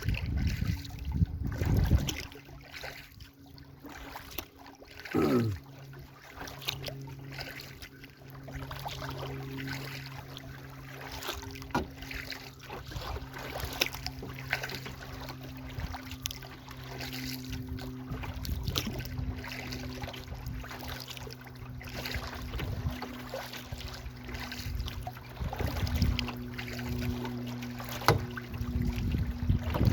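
Canoe being paddled with a double-bladed paddle: blade splashes and drips, with some wind on the microphone. About five seconds in there is a downward-sweeping sound, followed by a steady low hum.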